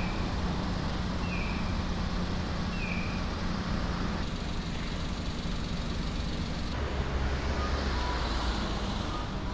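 Running noise of a moving vehicle heard from inside: a steady low engine hum over road rumble, with three short high beeps in the first three seconds.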